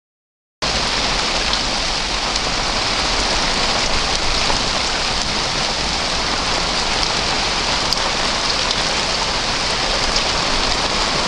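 Rain falling steadily on surfaces, with scattered drop ticks; it cuts in abruptly under a second in after a moment of silence.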